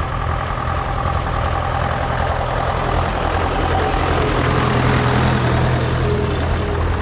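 Vintage tractor engines running, with a steady low engine note that grows a little louder past the middle.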